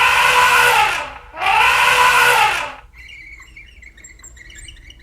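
Owl screeching: two long, harsh calls about a second each, the second starting after a short gap, followed by faint chirping of small birds.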